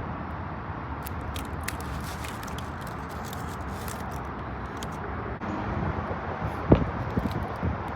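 Steady low background rumble, with faint clicks early on and a few short low knocks in the last second and a half, the loudest about seven seconds in.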